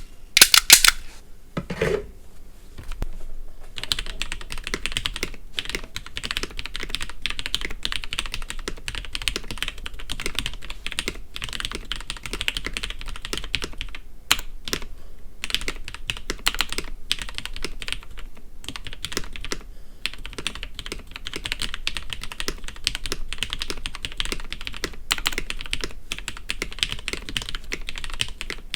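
Cooler Master Quickfire TK mechanical keyboard with broken-in Cherry MX Red linear switches and stock keycaps being typed on. A few loud clacks and a short pause come first, then steady, dense typing from about four seconds in.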